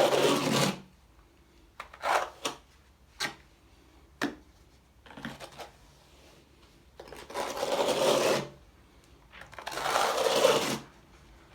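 Trowel scraping and spreading waterproof flexible tile adhesive over a stove plinth: a few short scrapes and taps, then two longer scraping strokes in the second half.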